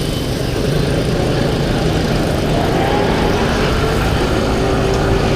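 Wind rushing over the microphone of a moving 50cc scooter, mixed with the scooter's engine and the noise of the surrounding traffic, steady throughout.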